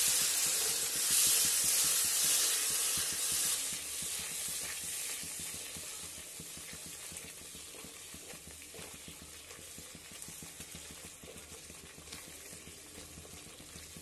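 Masala of yogurt, ground nuts and spices sizzling in oil in a kadhai, stirred with a silicone spatula as it is fried (bhuna). The sizzle is loudest in the first few seconds, then fades steadily.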